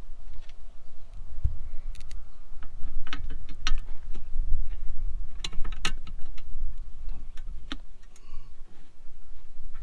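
Irregular light metallic clicks and taps of bolts being started by hand on a tractor's water jacket, over a low rumble.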